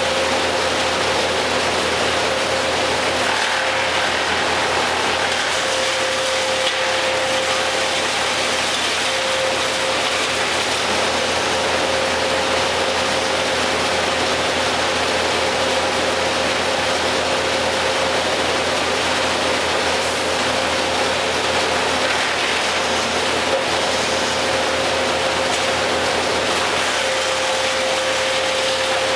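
Tree-work machinery engine running steadily, with a constant tone over an even mechanical noise.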